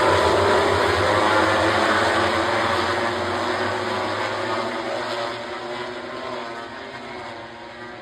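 MotoGP race motorcycle engines going past, the engine note falling slightly in pitch and fading steadily as they pull away.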